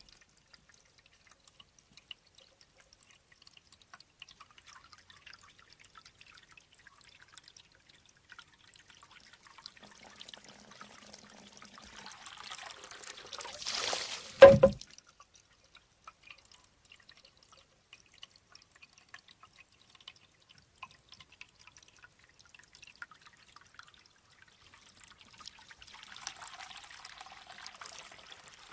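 Shishi odoshi bamboo fountain: a thin trickle of water, growing louder for a few seconds as the water pours, then the bamboo tube strikes its stone once with a sharp, hollow knock about halfway through. The pouring water builds again near the end.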